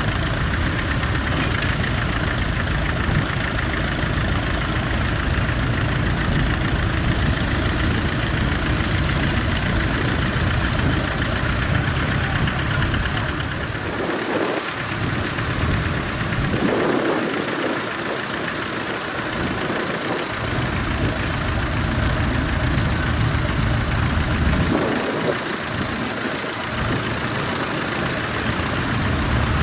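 Tractor engine running steadily. Its deep rumble drops away briefly a few times in the second half.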